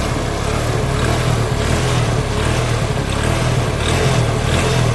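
TVS Apache RTR 180's single-cylinder four-stroke engine running steadily, with a noise from inside the engine that the mechanic identifies as crank noise, the sign of a crankshaft fault.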